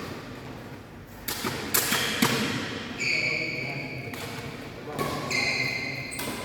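Badminton play: a few sharp racket hits on the shuttlecock, then two high squeaks of about a second each from shoes on the court floor.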